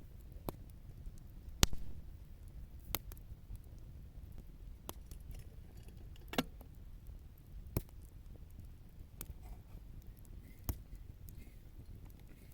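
Wood campfire crackling, with sharp separate pops and snaps every second or two, the loudest about a second and a half in, over a low steady rumble of the burning fire.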